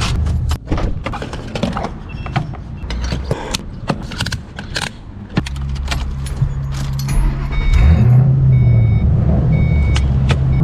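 Keys jangling and clicks of handling in a Ford Mustang GT's cabin, then the V8 engine starts up about five seconds in and settles into a steady idle, its pitch rising briefly near eight seconds. A few short electronic beeps repeat near the end.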